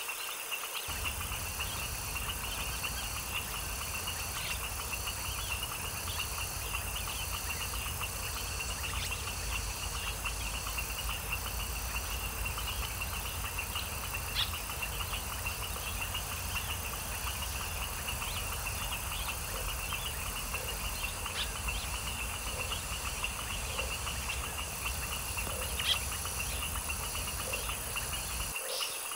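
Nature soundscape with a dense, steady chorus of chirping insects, a low rumble underneath that stops shortly before the end, and short frog calls repeating about once a second in the second half, with an occasional sharp bird chirp.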